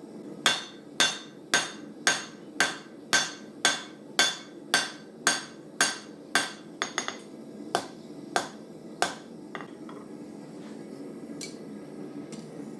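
Hand hammer striking hot steel on an anvil while forging a knife blade, a ringing blow about twice a second that slows to a few spaced blows and stops about nine seconds in. A steady low hum runs underneath.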